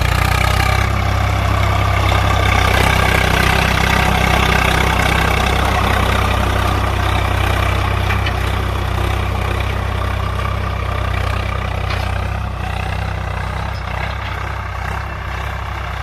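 Tractor's diesel engine running steadily, easing slightly quieter toward the end.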